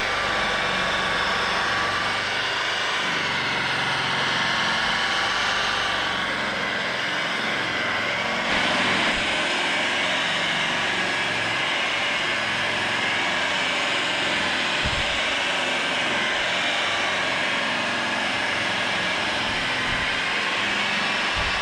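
Electric polishing machine running steadily against an aluminium propeller blade, a continuous whirring noise with a faint motor whine that wavers slightly in pitch.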